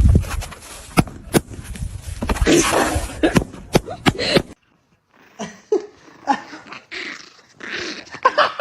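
Dog sounds over a run of sharp clicks and knocks, which cut off suddenly about halfway. After a brief silence come quieter, softer sounds.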